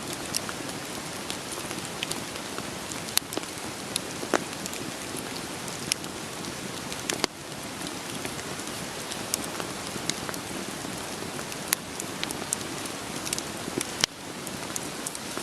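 Steady hiss of rain with scattered sharp crackles and pops of a wood fire burning. The level dips suddenly for a moment twice, about seven seconds in and near the end.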